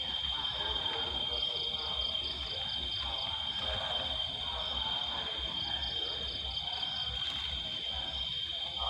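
Insects droning in a continuous high steady tone, with a second insect chirping in quick pulsed runs at a slightly higher pitch, several runs coming and going.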